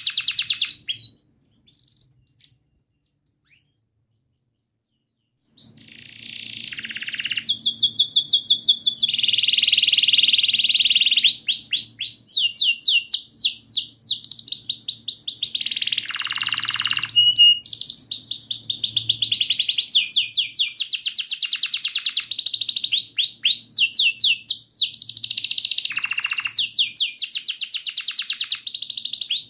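Domestic canary singing a long song of fast, densely repeated trills and rolling phrases, with a held buzzy note among them. The song breaks off about a second in, leaving a few seconds of near silence, then starts again and runs on unbroken.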